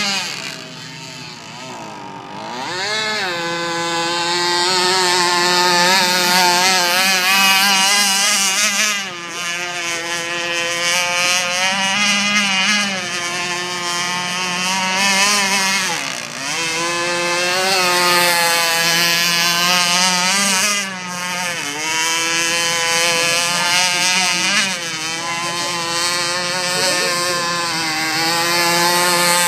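Radio-controlled model boat's motor running at speed, its pitch wavering with the throttle. It eases off and picks back up about two seconds in, and again around the middle and about two-thirds of the way through.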